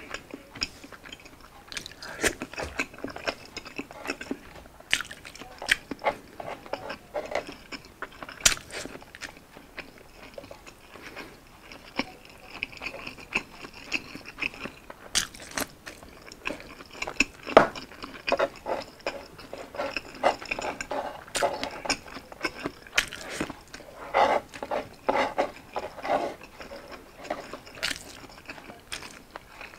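Close-up mouth sounds of someone eating soft food by hand (rice, fried egg and Spam dipped in sauce): wet chewing, lip smacks and irregular clicks, with no talk.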